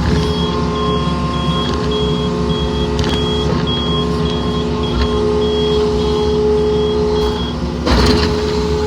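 Yanmar mini excavator's diesel engine running steadily under hydraulic load on soft pond-bottom ground, with a high beep repeating about twice a second. A loud clunk comes about 8 seconds in.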